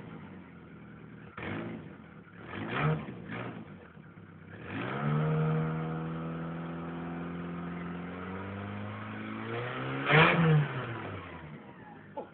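Ford Escort engine revved with the bonnet open: a few quick throttle blips, then a longer rev held steady for about four seconds before dropping back. One last sharp blip comes near the end, and the engine then settles down.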